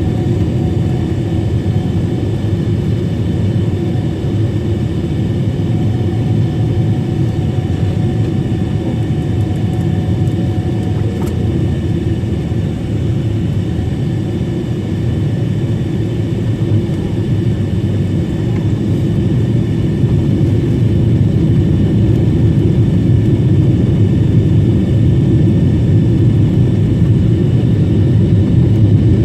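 Boeing 777-300 airliner cabin noise on approach: a steady rumble of engines and airflow with faint steady tones above it, growing slightly louder about two-thirds of the way through.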